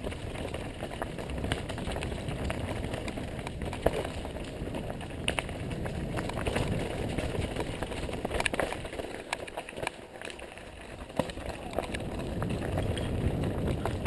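Mountain bike riding over a rocky trail: a steady rumble of tyres on dirt and rock, with the bike rattling and a few sharp knocks as the wheels hit rocks.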